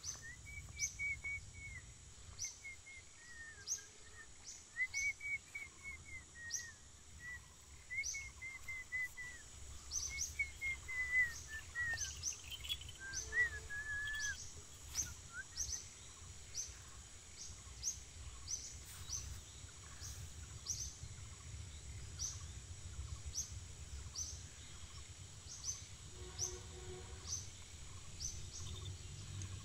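Birds calling: a short high chirp repeating about once a second throughout, and a warbling call in the first half. A steady low rumble runs underneath.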